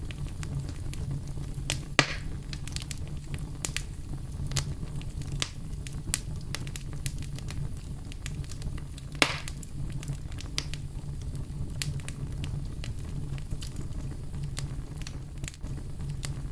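Wood fire crackling: scattered sharp pops and snaps over a steady low rumble, with two louder pops, one about two seconds in and one near the middle.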